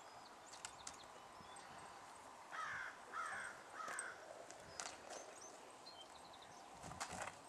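A bird calls three times in quick succession, each call about half a second long. A horse's hooves step softly a few times on arena dirt.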